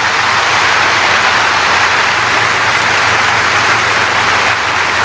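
Large crowd applauding, a dense, steady wash of clapping.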